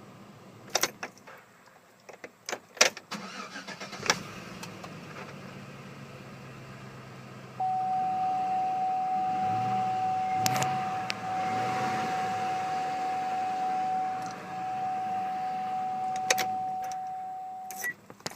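Sharp clicks and knocks around a GM SUV, then a single steady high tone, about ten seconds long, over a low hum. The tone is probably a warning sound from the vehicle.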